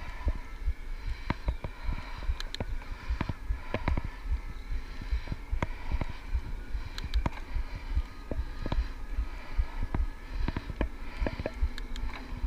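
Ride noise from an electric bike on the move: a constant low rumble with frequent irregular clicks and rattles, and faint steady high tones underneath.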